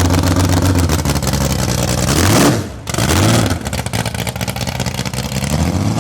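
Inline-six engine of a vintage race car running loudly at a choppy idle. About two and a half seconds in, the throttle is blipped: the revs rise sharply, drop away abruptly, rise briefly once more, and fall back to idle.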